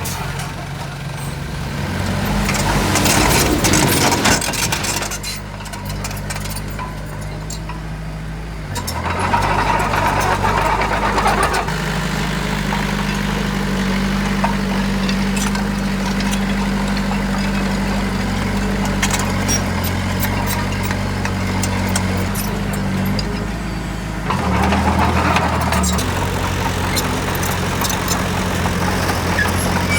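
Heavy construction machinery's diesel engine running under load, its engine speed changing several times, with a louder surge a few seconds in.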